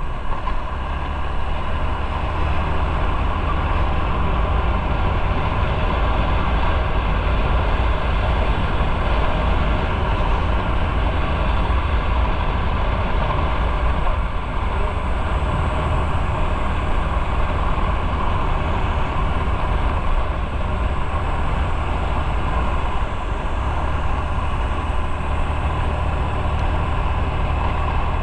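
Motorcycle running steadily on the move, its engine sound heavy at the low end and even throughout.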